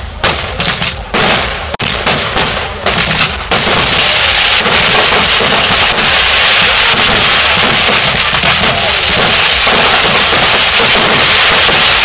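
Fireworks display: a quick string of separate bangs, then about three and a half seconds in they merge into a dense, steady crackle.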